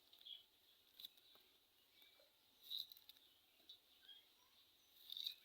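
Near silence, broken by a few faint, brief high chirps and light clicks.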